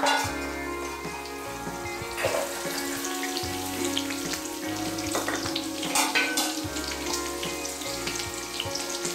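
Chopped onions frying in hot oil in a nonstick pan with chilies and curry leaves: a steady sizzle with scattered crackles and pops, loudest just at the start as the onions go in.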